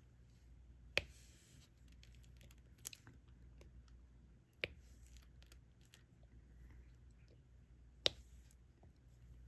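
Diamond-painting drill pen placing resin drills: four sharp taps spaced a couple of seconds apart, with faint scratching and rustling between them over a low steady hum.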